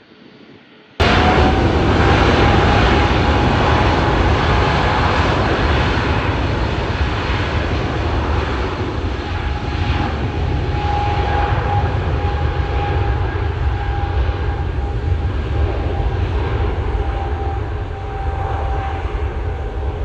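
Jet airliner engines running loud, a heavy rumble with a steady whine over it, cutting in abruptly about a second in.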